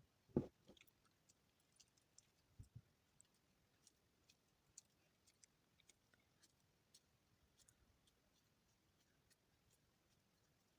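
Soap shavings being handled and pressed together by hand. There is a soft knock about half a second in, two smaller knocks a couple of seconds later, and faint, scattered crackles and clicks throughout.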